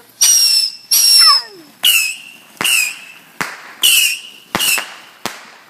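Small fireworks going off in quick succession: about eight sharp bangs, most trailed by a brief high-pitched whistle.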